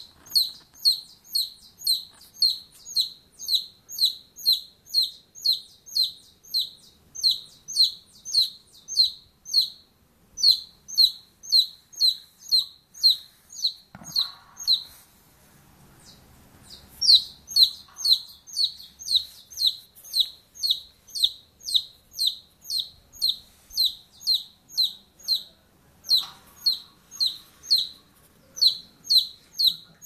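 A bird calling over and over in short, high, downward-slurred chirps, about two to three a second, with a pause of a couple of seconds about halfway through.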